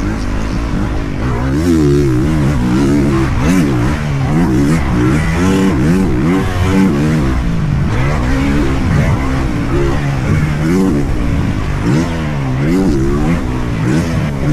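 Dirt bike engine being ridden hard on a motocross track. It revs up and falls back over and over, with pitch rising and dropping about every second through throttle and gear changes.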